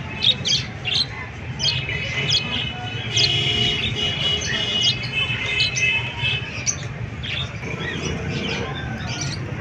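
Parrots chirping and squawking: a quick string of short, sharp calls, with a longer held call from about three seconds in.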